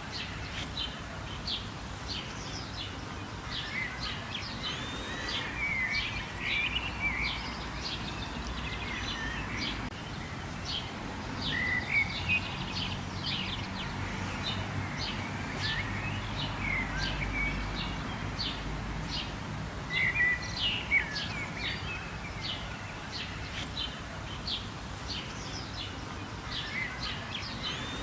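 Many birds chirping and calling, short quick notes in a dense chorus, over a steady background hiss and low rumble.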